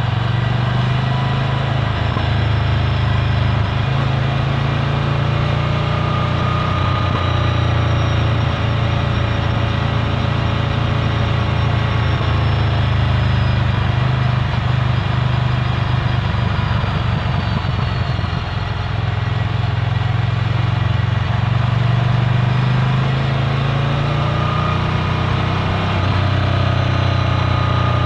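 Ducati Scrambler Full Throttle's air-cooled L-twin engine running through a Termignoni exhaust, a steady low engine note whose pitch rises and falls slightly a few times.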